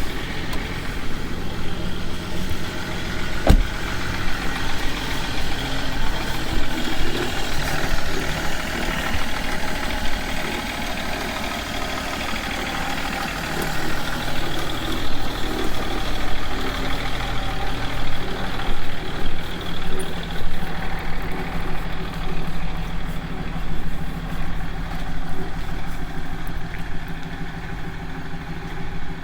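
BMW E39 525d's six-cylinder diesel idling shortly after a cold start, running noisily with an unexplained bad sound. A single sharp click comes a few seconds in.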